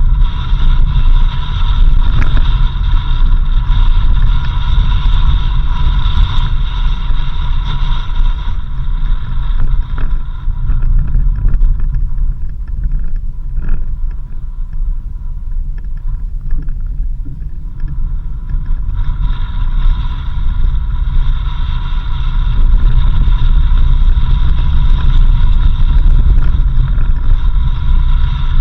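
A car driving on a dirt road: a continuous low rumble of engine and road noise, with a higher hiss of tyres and wind that fades for about ten seconds midway and then returns.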